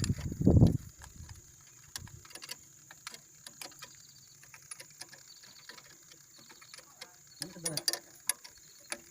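Scattered light clicks and taps from hand tools and parts being handled during repair work on a mini excavator. A short low burst sounds right at the start.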